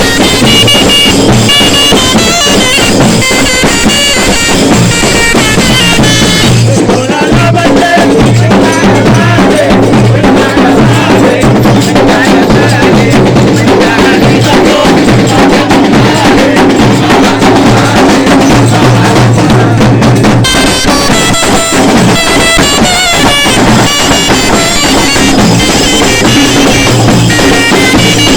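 Arab wedding zaffa music from a pipe-and-drum troupe: bagpipes with a steady drone over drumming. For a stretch in the middle the pipes drop out while the drumming goes on, then the pipes come back in.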